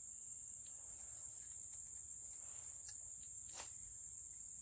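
Steady high-pitched chorus of insects, with a brief soft swish about halfway and a few light clicks in the second half.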